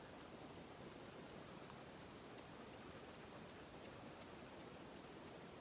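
Near silence: faint room hiss with very faint, evenly spaced high ticks about three times a second.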